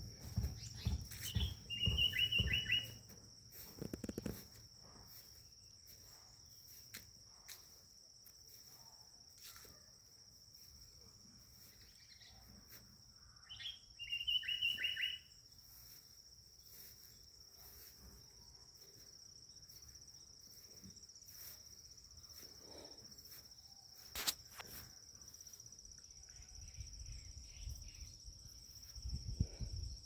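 A steady high-pitched insect drone, with a bird calling twice in short runs of several notes, about two seconds in and again about fourteen seconds in. Low rumbling near the start and end, and a single sharp click about twenty-four seconds in.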